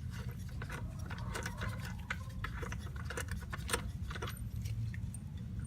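Irregular small metallic clicks and taps as a bolt is threaded into the clutch cover of a Kawasaki Mule 2510 by hand, over a steady low hum.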